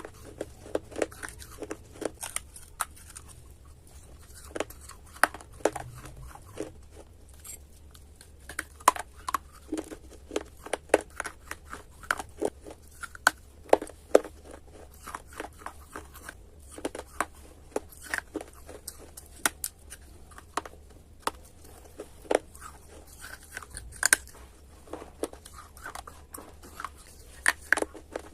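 Close-miked crunching of baked clay being bitten and chewed: irregular sharp crunches and crackles, often several a second, with short pauses between bites.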